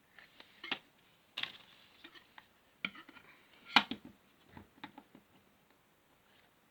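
Small plastic building-block pieces clicking and rattling as they are handled and pressed together: a scattering of short sharp clicks, the loudest about four seconds in.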